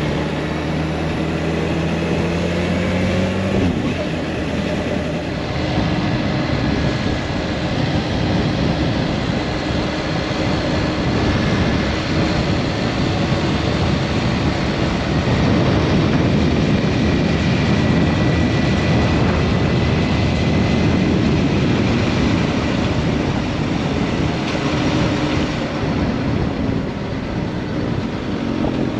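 Kawasaki Ninja H2 SX's supercharged inline-four engine pulling away, its pitch rising over the first few seconds, then running at road speed under a steady rush of wind noise on the bike-mounted microphone.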